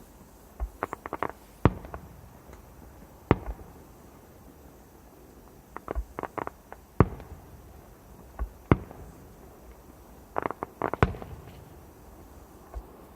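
Fireworks going off: five single sharp bangs a couple of seconds apart, with three quick runs of smaller pops in between.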